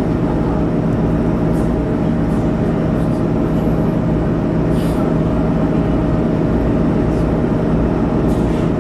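Diesel engine of a bus or railcar idling with a steady hum while the vehicle stands before departure.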